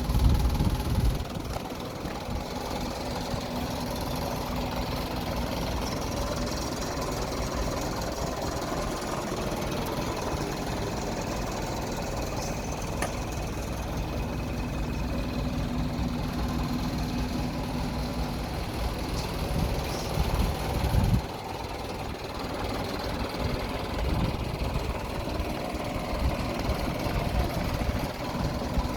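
Mitsubishi Canter truck's engine idling steadily, with a brief louder swell about two-thirds of the way through.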